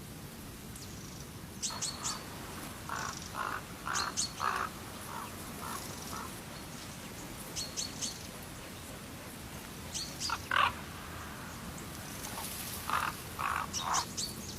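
Bird calling in bursts of short, clipped notes, a cluster every two or three seconds, over a steady outdoor hiss.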